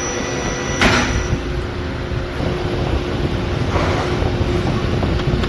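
Supercharged V6 engine of a Range Rover running with a steady rumble and hum. A short sharp noise comes about a second in, and a weaker one near four seconds.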